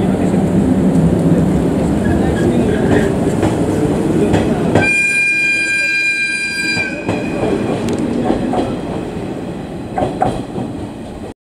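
Electric train pulling out of a station, its wheels rumbling and clacking over the rails. About five seconds in, a train horn sounds one steady chord for about two seconds, then the rumble fades as the train draws away, and the sound cuts off abruptly just before the end.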